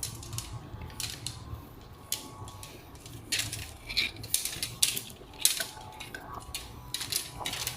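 Copper tubing and nylon tube benders being handled, giving an irregular scatter of light clicks, taps and short scrapes.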